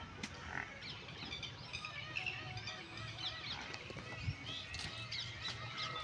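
Birds chirping and calling in many quick, overlapping short notes, over a low steady hum.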